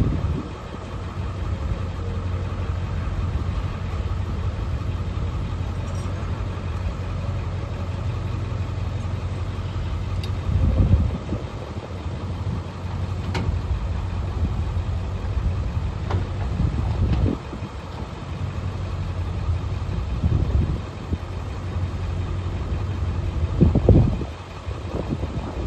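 Pickup truck on the move: a steady low engine and road drone, with a few thumps and rattles along the way.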